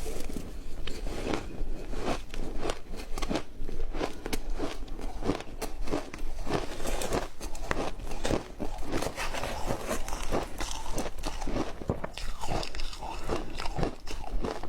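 A person biting and chewing matcha ice close to the microphone: dense, crisp crunching and crackling, several crunches a second without a break.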